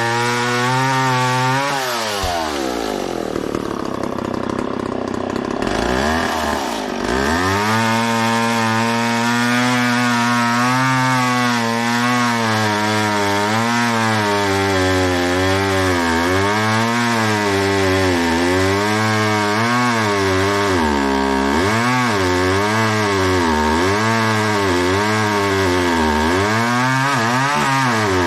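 McCulloch Mac 10-10 two-stroke chainsaw cutting hard Osage orange wood. The engine drops to idle about two seconds in and revs back up around seven seconds. After that its pitch rises and falls over and over as the chain bogs down in the cut and picks up again.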